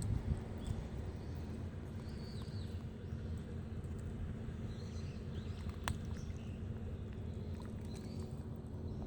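Shiba Inu chewing and crunching yellowtail fish bones: wet, uneven gnawing with small cracks and clicks, one sharp click about six seconds in.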